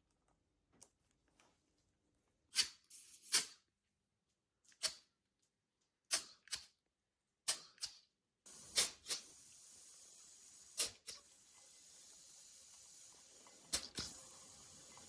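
Scattered sharp clicks and knocks of tools and metal engine parts being handled, with a steady hiss setting in a little past halfway.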